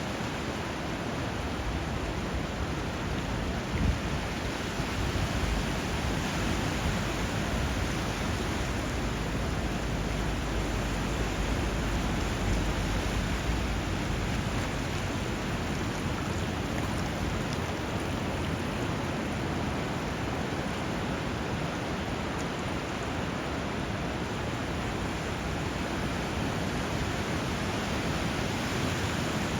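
Steady rushing water where a river flows into the sea, a continuous wash of river flow and surf. A low rumble swells in the middle, and there is a brief thump about four seconds in.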